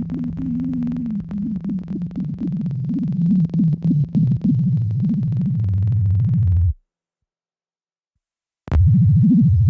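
Experimental electronic noise music from Bastl Kastle and Korg Volca Modular synthesizers: a low, wobbling synth drone with crackling glitch clicks. It cuts out abruptly to dead silence about seven seconds in, then comes back just as suddenly about two seconds later.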